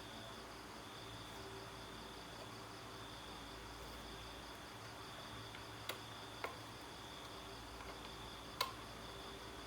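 Faint steady background hiss with a high, pulsing insect-like trill, broken by three small sharp clicks in the second half, the loudest near the end.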